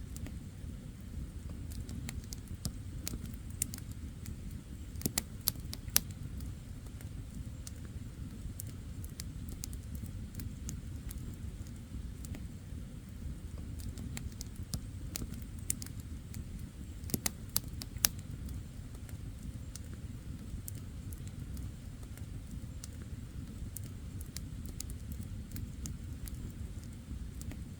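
Wood campfire burning: a steady low rush of flame with scattered crackles and sharp pops, the loudest pops about six and eighteen seconds in.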